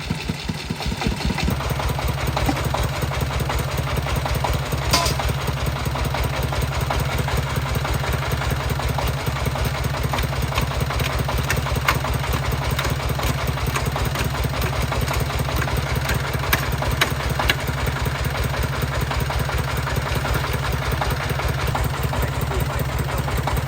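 Tractor engine running steadily with a fast, even beat, with a few sharp knocks over it.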